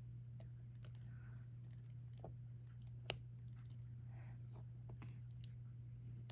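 Faint, scattered small clicks and taps of a diamond-painting drill pen picking up drills and pressing them onto the adhesive canvas, with one sharper click about three seconds in, over a steady low hum.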